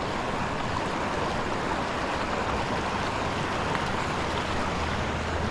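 Steady rushing noise, with a faint low hum coming in about halfway through.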